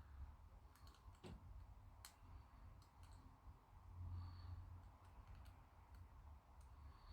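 Faint, scattered light clicks and scratches of a hobby scraper working on a painted plastic model part, scraping paint away so the cement can grab.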